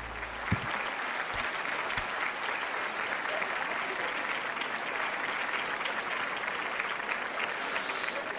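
Steady rain falling, an even hiss, with a few faint knocks in the first two seconds.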